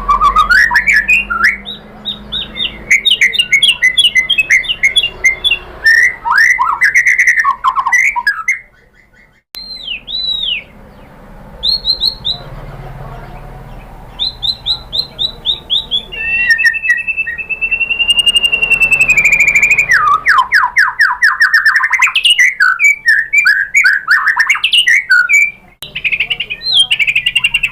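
White-rumped shama singing a varied song of fast trills, whistled phrases and chattering notes, with a brief pause near a third of the way in. Past the middle it holds one long whistle for a few seconds, then breaks back into rapid trills.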